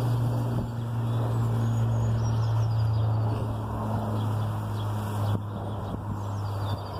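Bamboo rustling and swishing in strong wind, over a steady low hum that is the loudest thing heard. A few faint bird chirps come through on top.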